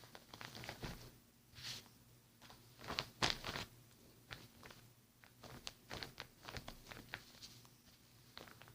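Slime being squeezed and pressed by hand, giving a run of small clicks, pops and crackles, busiest about three seconds in and again around six to seven seconds.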